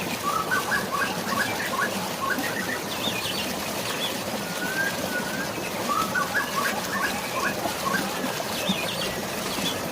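Steady rush of falling water, with a songbird singing the same phrase twice: a short slurred whistle, then a quick run of chirps and a few higher notes.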